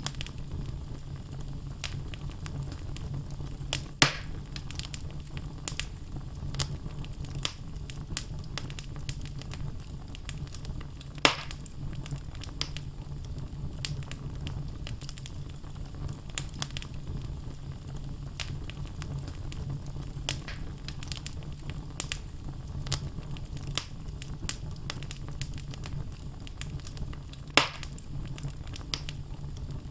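Wood logs burning in a fireplace: a steady low rumble of flame with constant crackling, and three louder pops about 4, 11 and 27 seconds in.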